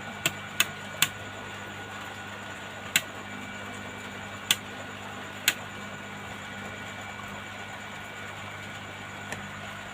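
Hot air rework station's gun humming steadily, with six sharp clicks in the first six seconds. No air comes out of the gun, and its fan motor inside is thought to be faulty.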